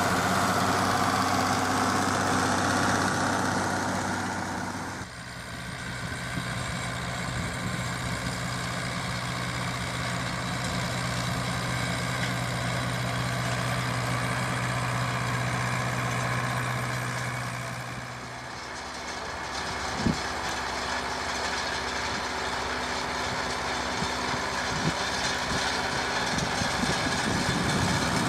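Zetor Crystal tractor diesel engine running steadily, its tone changing abruptly about five seconds in and again near eighteen seconds. A single sharp knock comes about twenty seconds in.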